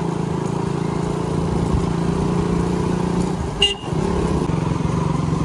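Motorcycle engine running steadily under way, with a short horn toot about three and a half seconds in.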